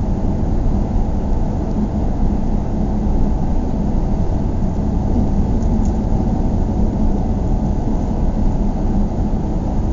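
Steady road noise of a car driving: a low, even rumble of tyres and engine, picked up by a dash cam.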